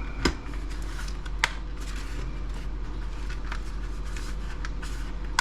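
Laptop docking station being handled and turned over on a bench: scattered light clicks and knocks, two sharper knocks in the first second and a half, over a steady low hum.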